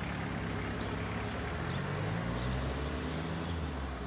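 Car engine running at low revs, its pitch rising a little about halfway through.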